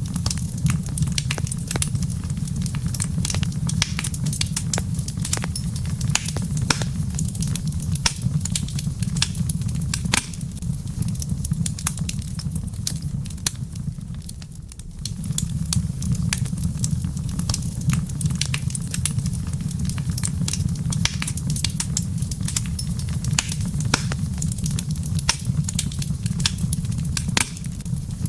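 Wood fire in a fireplace crackling, with many sharp pops and snaps over a steady low rumble of the flames; the rumble dips briefly about halfway through.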